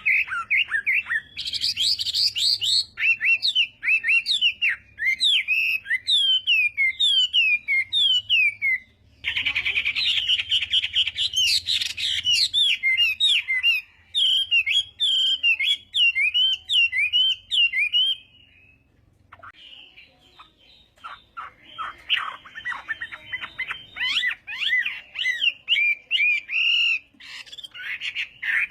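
Chinese hwamei (hoạ mi) singing a long, varied song of rapid whistled phrases. The song stops for about two seconds about two-thirds of the way through, then resumes.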